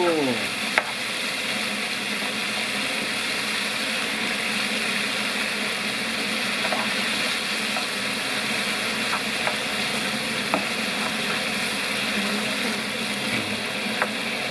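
Food sizzling in a hot pan, a steady hiss, broken by a few sharp clicks.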